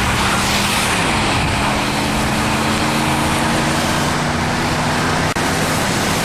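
Car engine running under a steady rush of road and wind noise as the vehicle drives; the engine's pitch drops about a second in, then holds steady.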